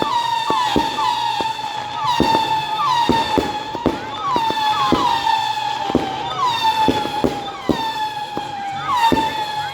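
Fireworks going off: a steady shrill whistle with short downward-sliding whistles about once or twice a second, over repeated sharp cracks and bangs.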